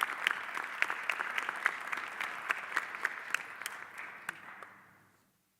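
Audience applauding for an award recipient, the clapping thinning out and fading away near the end.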